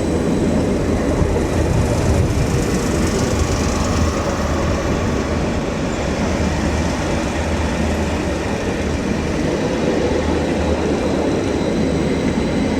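Greater Anglia Class 755 Stadler FLIRT bi-mode unit running on electric power: a steady low hum of the train with rolling wheel noise and faint high steady tones.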